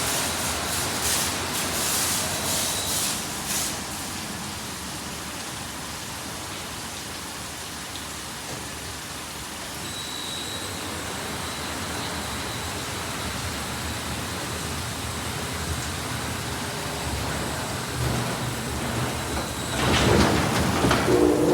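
Ryko SoftGloss XS 2 automatic car wash spraying water over the car, a steady hiss heard from inside the car. It grows louder near the end.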